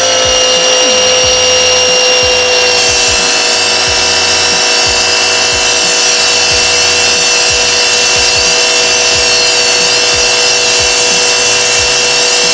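Small electric pressure washer running with a steady high motor whine. About three seconds in, the pitch settles slightly lower as the spray hiss comes in.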